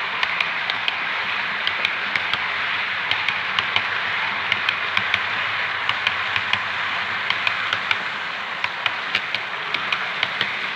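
Model train running along the layout: a steady whirring rush of wheels and motor, with sharp clicks as the wheels pass over rail joints, slightly quieter in the last few seconds.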